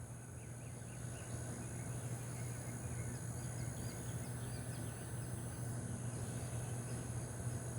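Steady high-pitched insect chorus, typical of crickets, over a low steady hum, with a faint run of small bird chirps in the middle.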